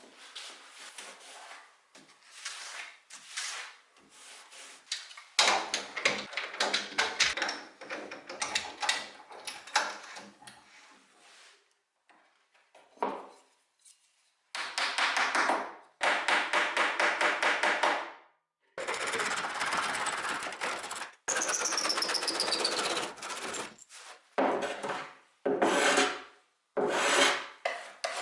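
A hand tool working wood, scraping and rasping in bursts of quick strokes with short pauses between them.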